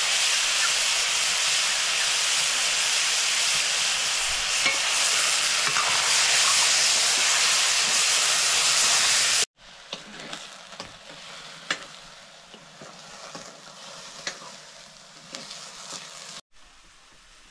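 Food frying in a hot pan: a loud, steady sizzling hiss. About nine and a half seconds in it cuts suddenly to a much quieter sizzle with scattered clicks and taps of stirring, which drops lower again near the end.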